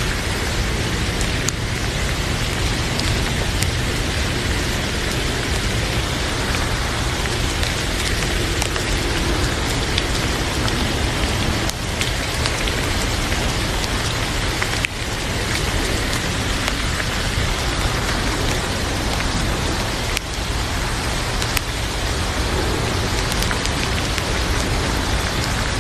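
Heavy rain beating on a moving car's windshield and roof, heard from inside the cabin: a loud, steady hiss with scattered sharp taps of drops.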